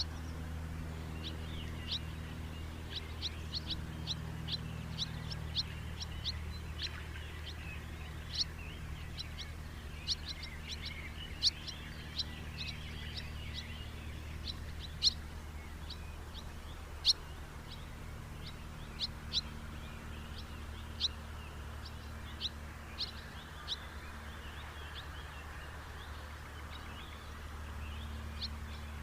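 House martins calling: short, sharp chirps, many in quick succession in the first half, then more scattered, over a steady low background hum.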